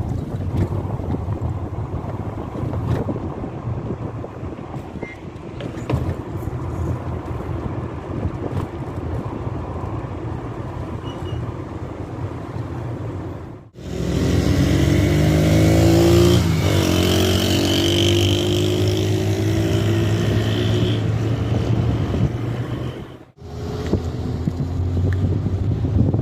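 Motor vehicle engine running with a steady low rumble; about 14 seconds in the sound jumps louder and the engine's pitch rises and falls, and near the end it changes abruptly again.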